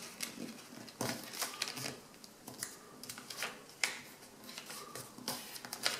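A sheet of A4 paper being folded and creased by hand: irregular rustles and crackles of the paper, with one sharper snap a little before four seconds in.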